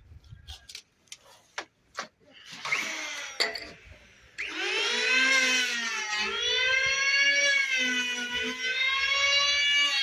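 A few scattered clicks and knocks, then, about four seconds in, an electric power tool starts up: a loud, steady motor whine whose pitch sags and recovers a few times as the tool takes load.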